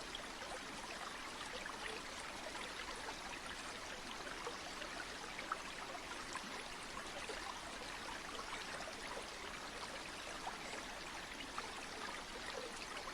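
Flowing river water: a steady, even rush of water speckled with many small bubbling splashes.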